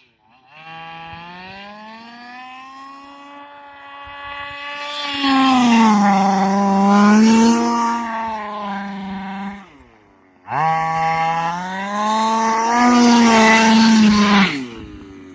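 HPI Baja 5B's stock 23cc two-stroke engine revving hard as the car drives, in two long runs at high revs with the pitch wavering. It drops off briefly about ten seconds in and again near the end.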